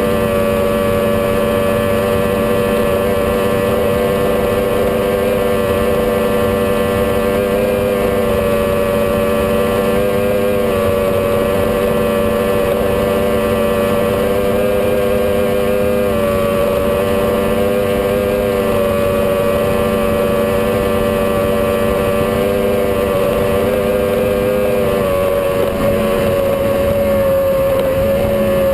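Powerboat engine running at a steady cruising speed, holding a constant pitch that shifts slightly near the end.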